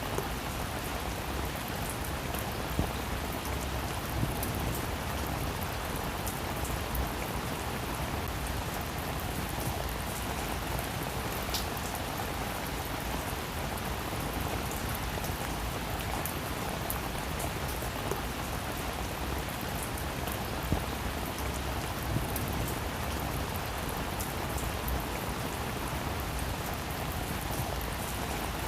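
Steady rain falling on a roof: an even hiss with scattered sharper drop taps.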